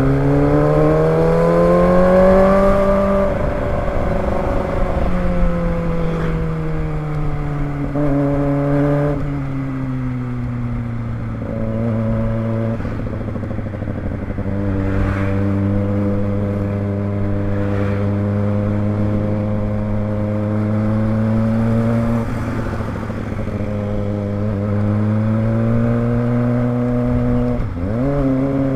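Kawasaki ZX25R's 250 cc inline-four engine pulling on the move. It revs up over the first few seconds, then drops and climbs again a few times as the gears change, holds a steady speed through the middle, and revs back up near the end.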